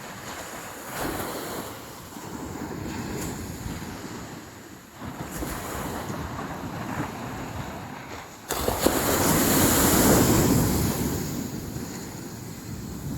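Sea waves breaking and washing up a beach in rising and falling surges. About two-thirds of the way through, a bigger wave breaks suddenly, the loudest sound here, and its wash fades over a few seconds.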